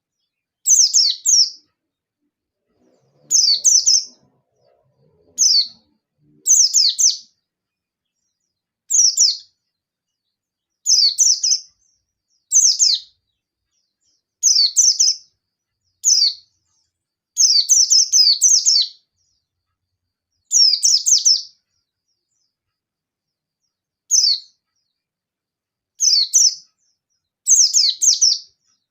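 A white-eye (pleci) singing short bursts of rapid, high chirping, roughly one burst every one to two seconds with brief pauses between. It is the agitated song a white-eye uses to challenge a rival.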